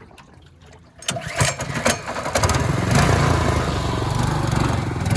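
Small gas engine of a mud motor on a boat: after a few knocks it comes up to speed about two seconds in and then runs steadily.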